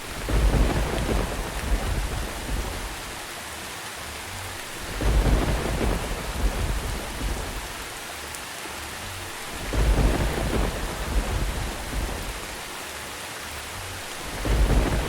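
Thunderstorm: steady rain with rumbles of thunder swelling up and fading away four times, about every five seconds.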